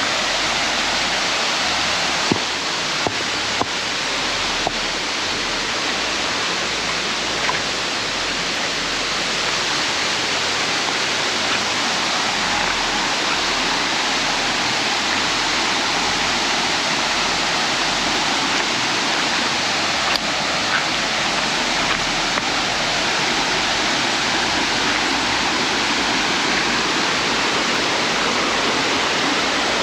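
Waterfall pouring steadily, a dense even rush of water, with a few faint knocks over it in the first several seconds.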